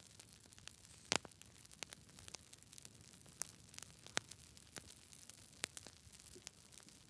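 Wood fire crackling: irregular sharp pops and snaps over a faint steady hiss, the loudest pop about a second in.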